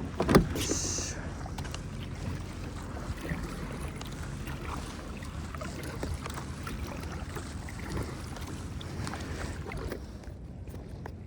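A kayak moving on the water: a steady low rumble of water and wind with scattered light knocks. A few sharper knocks come in the first second, and the sound turns quieter and duller about ten seconds in.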